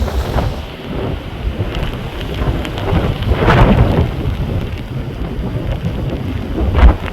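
Storm-force wind gusting and buffeting the microphone with a heavy low rumble, rain falling. Gusts swell strongest about halfway through and again just before the end.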